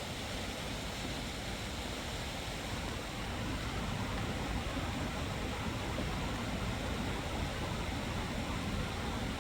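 Steady wind noise with a fluttering low rumble on the microphone, growing a little louder about three and a half seconds in.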